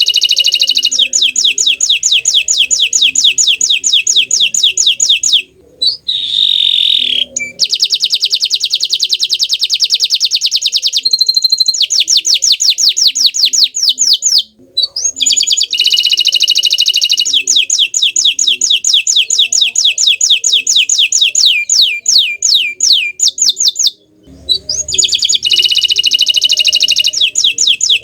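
Domestic canary singing long rolling trills of rapid repeated high notes, one phrase after another, with brief pauses between phrases.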